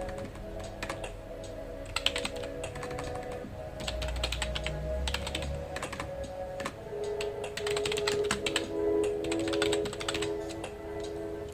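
Typing on a computer keyboard: keystrokes clicking in quick runs with short pauses between, over background music with held notes.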